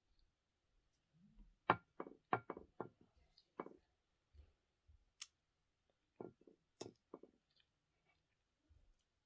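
Close-up eating sounds: a quick run of about six sharp clicks and smacks about two seconds in, then a few more a little past halfway.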